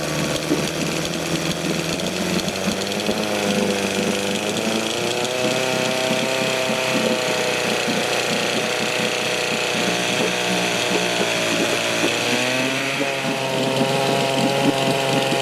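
1972 Johnson Seahorse 6 hp two-stroke outboard motor running continuously with a fast pulsing beat, its pitch rising and falling, most clearly a few seconds in and again about twelve seconds in.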